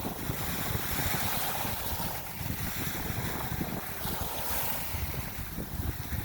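Steady rushing of wind and water, with wind buffeting the microphone in low gusts.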